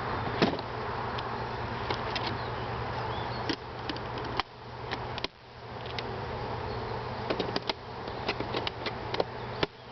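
Honeybees buzzing steadily around an opened hive, with scattered knocks and clicks of the wooden hive parts being handled as the hive is put back together.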